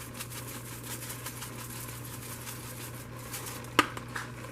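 Pot of water with noodles boiling on a stovetop: a steady hiss with light ticks and bubbling, and one sharp click near the end.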